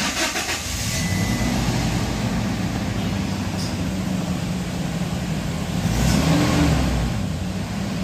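Toyota Hilux petrol engine cranking and catching, then running steadily at idle, with a brief rev that rises and falls about six seconds in.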